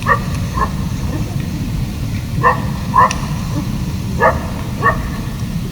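A dog barking, six short barks in three pairs, over a steady low rumble.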